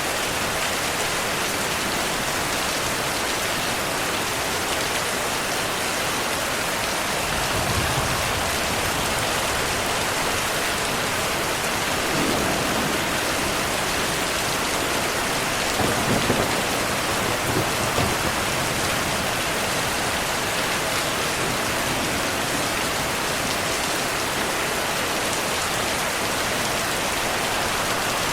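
Steady heavy rainfall hissing, with low thunder rumbles swelling under it a few times, the strongest about two-thirds of the way through.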